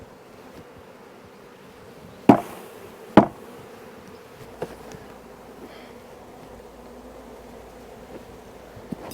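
Honeybees buzzing steadily around an opened hive, broken by two loud knocks about two seconds in and a second apart, with a few lighter taps later.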